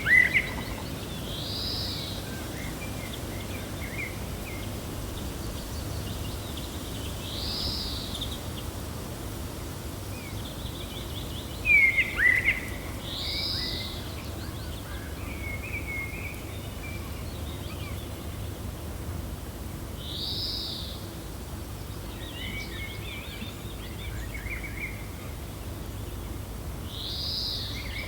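Woodland birds calling over a steady low wind noise: a high arched note repeating every six or seven seconds, scattered short chirps, and two loud sharp falling calls, one at the start and one about twelve seconds in.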